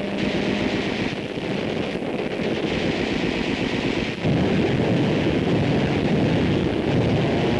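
Dense, continuous rumbling roar of naval battle: anti-aircraft gunfire and explosions on an old newsreel soundtrack, growing louder about four seconds in.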